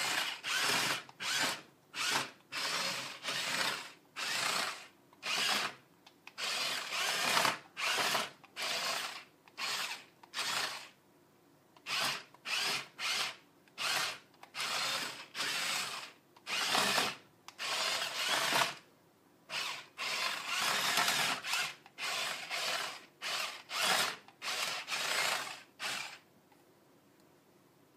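Small electric motor and plastic gears of a remote-control toy dump truck whirring in many short stop-start bursts, each lasting up to a second or so, as its remote buttons are pressed and released. The whirring stops a couple of seconds before the end.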